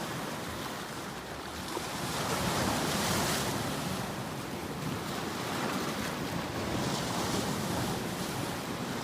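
Ocean waves washing in, a steady rushing noise that swells about three seconds in and again near the end.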